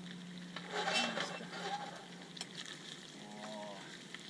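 Meat, carrots and onions sizzling as they fry for plov over a campfire, with a louder burst of stirring about a second in.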